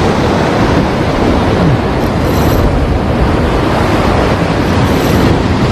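Heavy surf washing against the shore, with wind buffeting the microphone: a loud, steady rush of noise.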